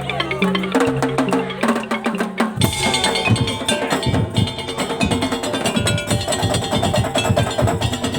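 Madurese daul (tongtong) music ensemble playing: held low bass and melody notes, then about two and a half seconds in the full band comes in with dense, rapid percussion of drums and struck wooden tongtong.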